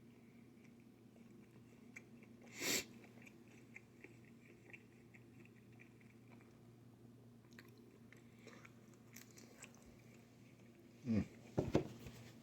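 A person chewing pizza close to the microphone, with faint wet mouth clicks. There is a short loud breath noise about three seconds in, and a few loud, brief mouth noises near the end.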